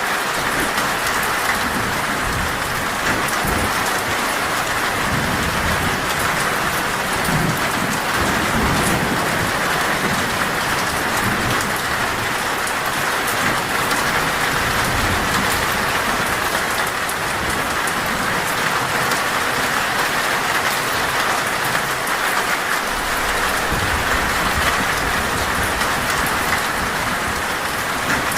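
Heavy rain falling steadily on a metal roof, with low thunder rumbling at times.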